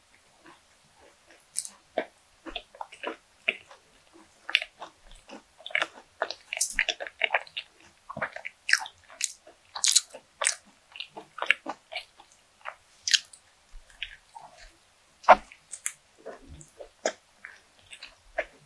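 Close-miked mouth sounds of a person biting and chewing a crumb-coated bread bun: many short, sharp, irregular clicks and crunches of the crust and filling, with the loudest about halfway through.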